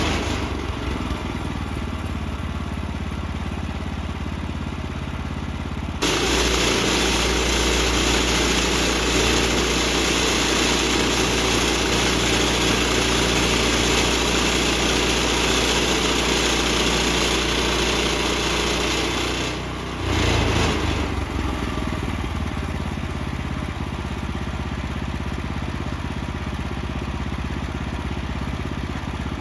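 Portable bandsaw sawmill running under power with its gas engine droning steadily. About six seconds in, a much louder, higher sawing noise starts abruptly, typical of the band blade cutting through the red oak log. It stops abruptly near twenty seconds, with a brief surge just after.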